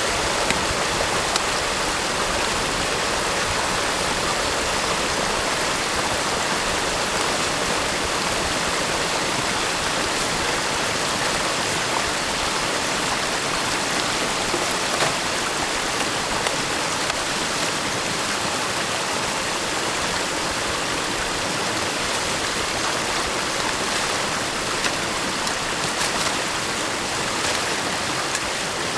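Steady rush of stream water pouring through a beaver dam, with a few faint clicks.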